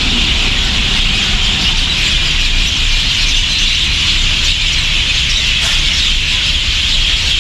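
Dense, continuous chorus of a large flock of birds chirping and twittering all at once, over a steady low rumble of traffic.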